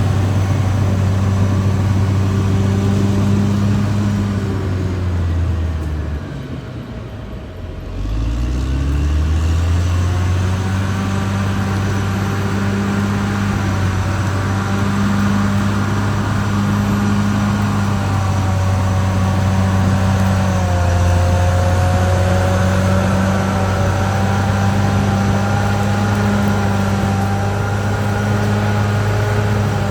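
Caterpillar D6R XL bulldozer's diesel engine running steadily under load, with a higher whine over it. About six seconds in the revs drop away, then climb back up a couple of seconds later.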